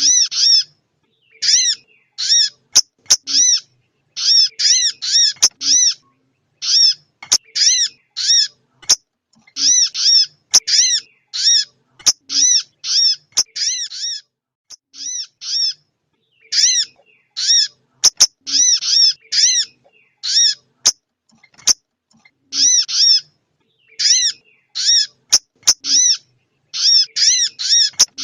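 Female sogon bird calling: short, high, arched notes in quick runs of two to five, repeated with brief gaps, with sharp clicks here and there. The call is used to stir a male sogon into singing.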